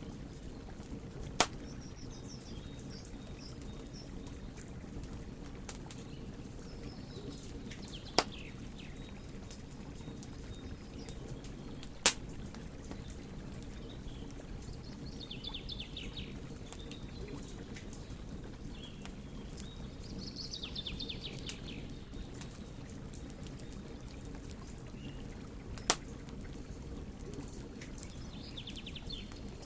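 Wood fire burning with a steady low rush and light crackling, broken by four sharp, loud pops spread through. Small birds chirp faintly now and then in the background.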